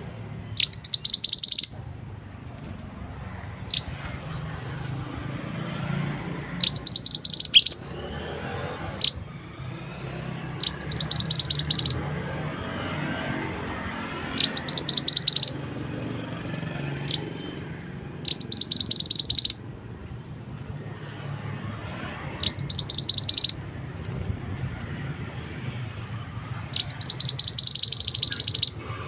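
A mantenan songbird singing: seven loud, fast, high-pitched rolling trills of about a second each, one every four seconds or so, with a few single short notes between, over a low steady background hum.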